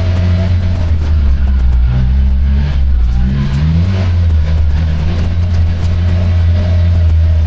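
A motor vehicle's engine running steadily while under way, its pitch rising and then dropping about two to four seconds in as the revs change.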